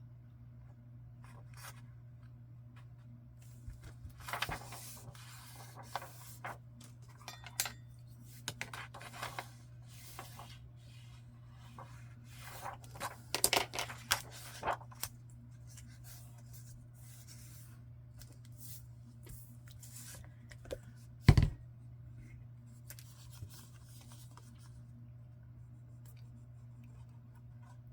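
Paper and card being handled on a work surface: intermittent rustling, sliding and scraping, with one sharp tap about 21 seconds in, over a steady low hum.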